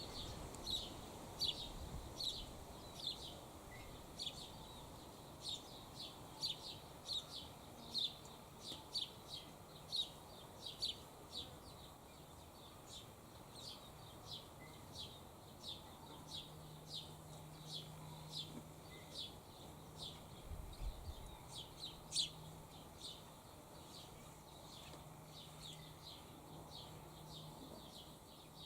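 A bird repeating a short, high chirp about twice a second, louder over the first dozen seconds and fainter after that.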